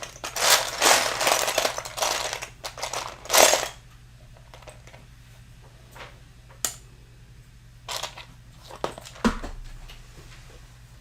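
Loose plastic building-brick pieces rattling and clattering as a hand rummages through a bin of them, then a few scattered clicks of single pieces.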